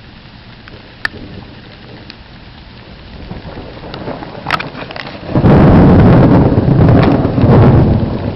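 Steady heavy rain with a few sharp ticks. About five seconds in, a loud thunderclap from a close strike breaks in and rumbles on in swells.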